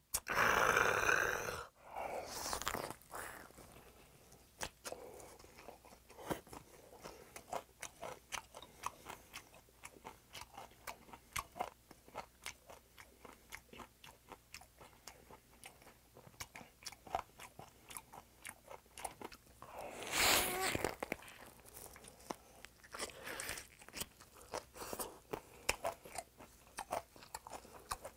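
Close-up mouth sounds of a person chewing a raw silver pomfret sandwich with romaine lettuce and onion: wet smacking and crunching, several chews a second. Two louder bursts stand out, one at the start and one about twenty seconds in.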